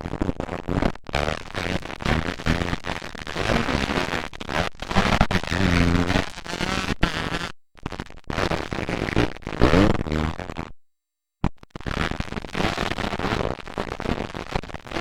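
Motocross dirt bike engines racing, revving up and down through the gears, loud and harsh on the mic. The sound cuts off abruptly twice, at the edits between recorded clips.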